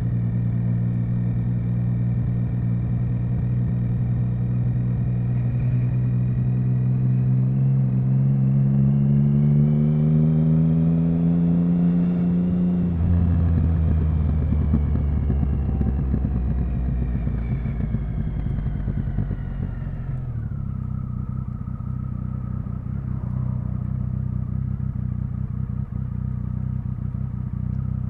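Triumph Speed Triple 1050 inline-three engine on the move: a steady note, then rising revs as it accelerates midway, then falling revs as it slows. About two-thirds of the way through the note drops abruptly and settles into a steady low idle.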